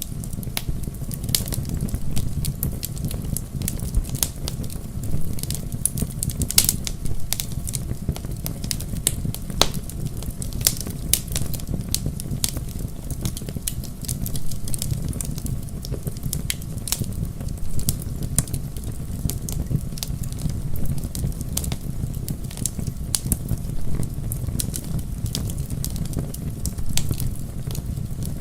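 Wood bonfire burning: many sharp crackles and pops from the logs, scattered irregularly over a steady low rumble of the flames.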